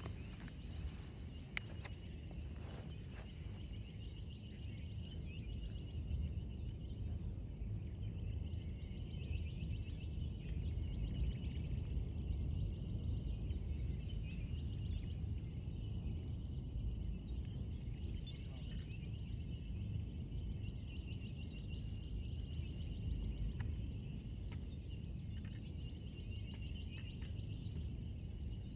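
Hawaiian honeycreepers singing and chirping in short scattered phrases over a steady low rumble, with a constant high trill underneath.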